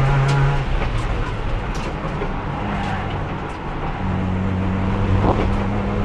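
Racing car engine heard onboard, held in fourth gear because the worn gearbox will not shift: it runs at a steady note, drops away as the throttle is lifted just under a second in, then comes back about four seconds in and holds a steady note again.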